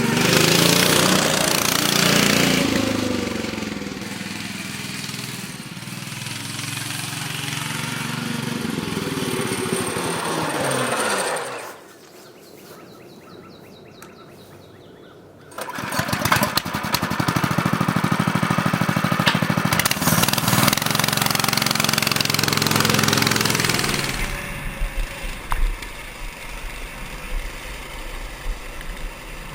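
Single-cylinder 196cc Honda-clone engine of a Baja Warrior mini bike running and revving, its pitch rising and falling. It drops away to a much quieter level for a few seconds near the middle, runs hard again, then settles lower near the end.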